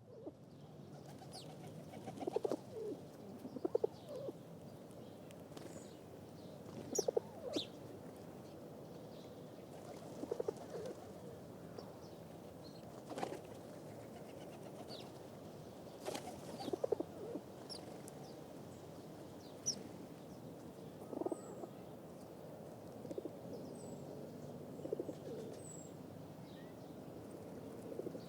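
Pigeons cooing: short clusters of low coos every couple of seconds over a steady background hiss.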